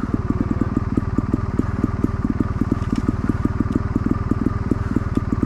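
Enduro dirt bike engine idling steadily, with an even, rapid pulse of about eight firings a second.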